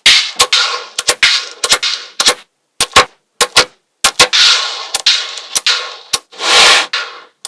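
Small magnetic balls snapping together and clacking against one another in quick, irregular clicks. Some clicks are followed by a short rattle or ring.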